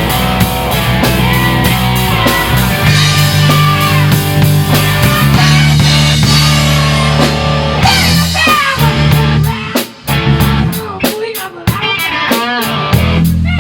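Rock band playing live in a rehearsal room, with no vocals: bass and drum kit under an electric guitar lead with bent notes. From about ten seconds in, the band breaks into short stop-start hits with gaps between them.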